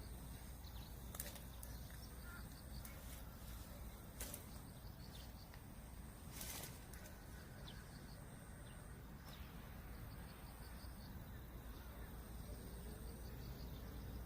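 Faint outdoor nature ambience: a low wind rumble with faint bird calls and a high repeating chirp, broken by a few soft clicks.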